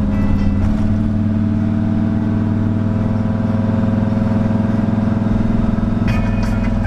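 Mercedes T1 camper van's engine running steadily while driving, a constant low drone. A few light clicks come near the end.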